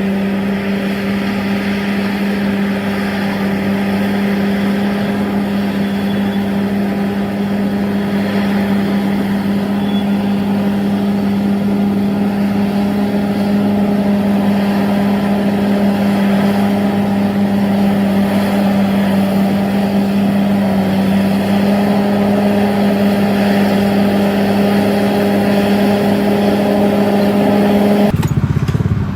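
Diesel engine of heavy earthmoving equipment running steadily at high revs, a constant droning hum with a rough, noisy edge. The sound changes abruptly about a second before the end.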